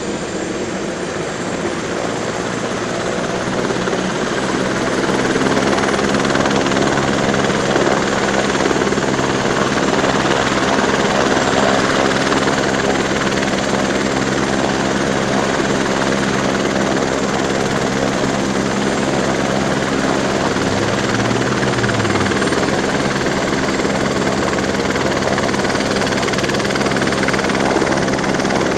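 Helicopter rotor and engine running steadily. It grows louder over the first few seconds, then holds.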